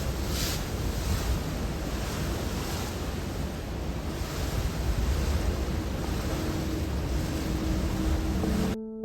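Wind buffeting the microphone over rushing water, with a steady deep rumble underneath. It cuts off suddenly near the end.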